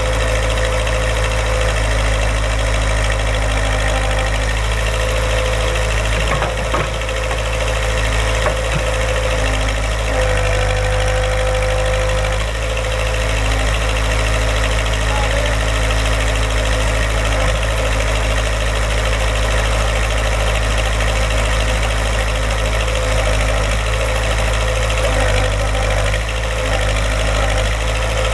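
Backhoe engine running steadily at idle, with a brief clatter about six and a half seconds in and small shifts in its note a few seconds later.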